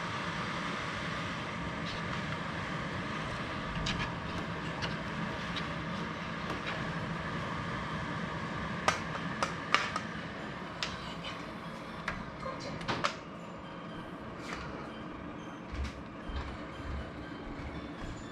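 Air purifier fan running with a steady hum, with scattered sharp clicks and taps, several of them close together about nine to thirteen seconds in. The fan noise drops a little after that.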